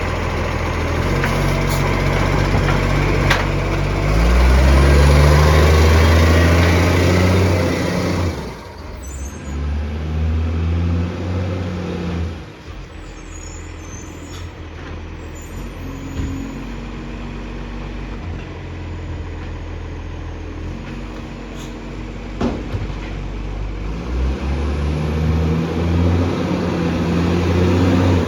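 Recycling truck's diesel engine running, revving up about four seconds in and dropping back sharply about eight seconds in. It idles more quietly through the middle and revs up again near the end.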